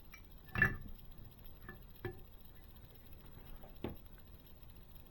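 Small scale-model parts clicking and tapping against each other as they are handled and fitted together: about four light taps, the loudest about half a second in.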